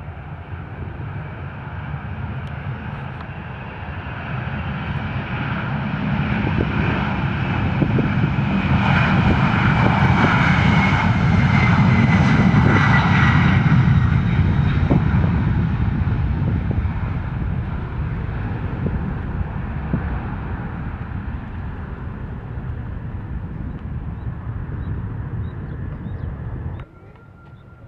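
Aircraft engines passing close by: the engine noise swells to its loudest about midway, with a whine that slides down in pitch as it goes past, then fades. The sound drops off suddenly just before the end.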